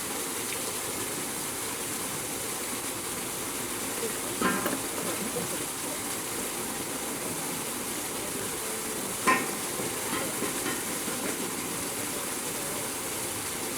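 Steady rush of water noise, with two brief louder sounds about four and a half and nine seconds in.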